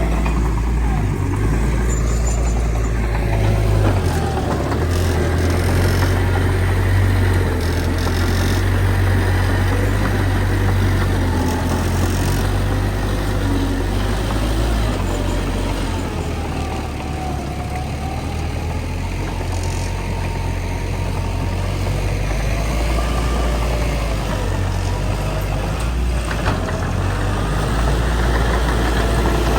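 Heavy diesel earthmoving machinery running steadily, its engine note rising and falling a little as it works.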